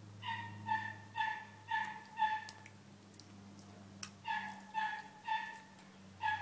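A bird calling in runs of about five clear, evenly spaced notes, roughly two a second. Two runs come with a pause between them, and a third begins right at the end.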